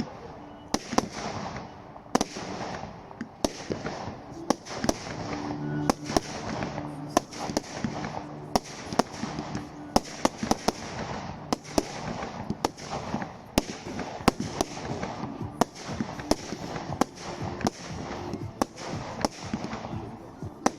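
Fireworks display: a rapid, irregular string of sharp bangs and crackles, often several a second, over a continuous rumble of shells bursting.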